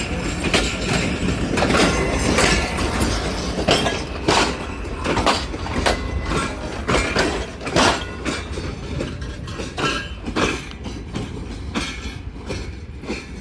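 Pakistan Railways passenger train rolling along the platform, its wheels clacking repeatedly on the track over a steady low rumble.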